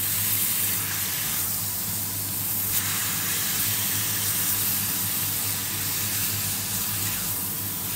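Chicken pieces and sliced onion sizzling steadily in a hot cast-iron skillet while they are stirred with a silicone spatula, over a faint steady low hum.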